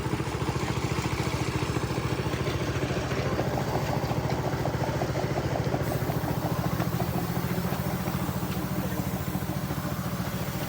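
A small combustion engine idling steadily, with a rapid, even putter.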